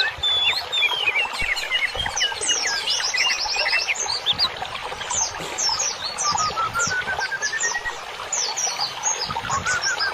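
Several songbirds chirping and singing at once, a dense run of rapid high downward-sweeping notes, with a rising series of short whistled notes about six seconds in.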